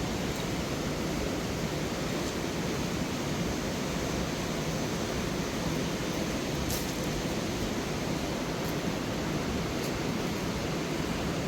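Fast mountain river rushing over rocks, a steady dense roar of water, with a few faint brief ticks in the second half.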